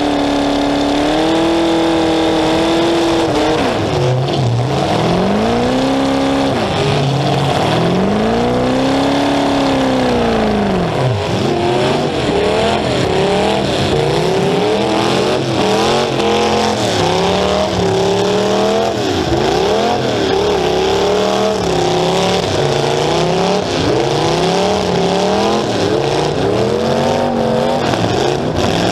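Demolition derby car's engine revving loudly through two open exhaust stacks sticking up through the hood. The revs rise and fall over and over, in long slow swells at first and in quicker, shorter ones through the second half.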